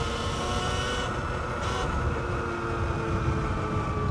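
Sur-Ron X electric dirt bike's motor whining as several steady tones, sinking slightly in pitch as the bike slows. Underneath is a low rumble of wind and road noise.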